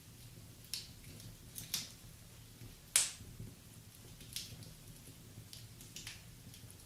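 Wood fire burning in a fireplace, crackling with scattered sharp pops at irregular intervals over a low, steady flame sound; the loudest pop comes about three seconds in.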